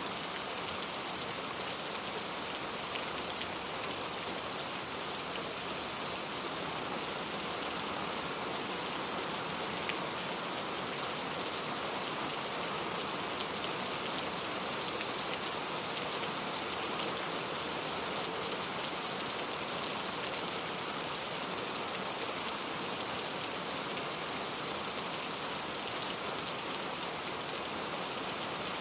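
Steady rain falling, an even hiss of many drops striking a surface with fine scattered drop ticks.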